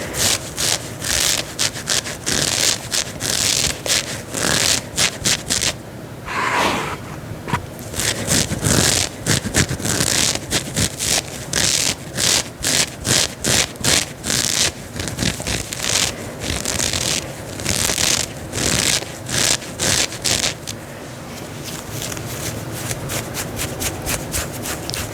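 Fingernails scratching and rubbing the fabric of a long dress in quick repeated strokes, a few a second, turning softer and more even about three quarters of the way through.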